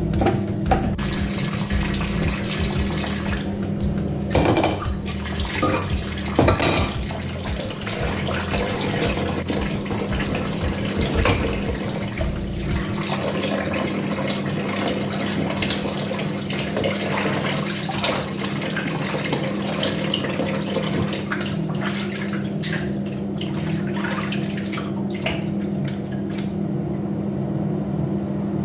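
Kitchen tap running steadily into a sink, with a few knocks from things handled in the sink about four to seven seconds in.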